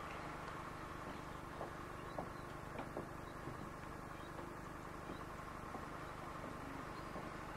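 Seaton Tramway tram running: a steady low hum with scattered light clicks, and faint bird calls.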